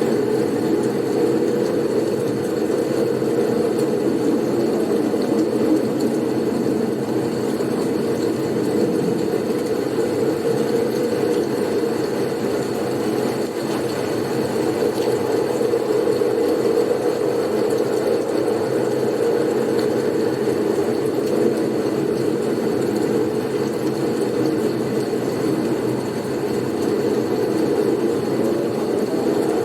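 Blizzard ambience: a steady low wind rush with no distinct gusts, swelling and easing only slightly, with a faint thin high tone running through it.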